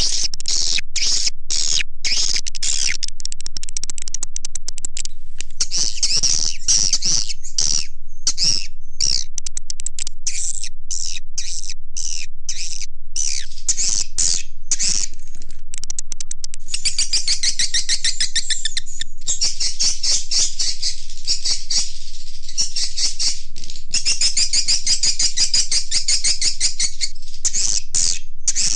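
Swiftlet calls from a lure recording used to draw edible-nest swiftlets into a bird house: dense, unbroken twittering and rapid clicking chirps, turning into fuller, continuous trilling in the second half.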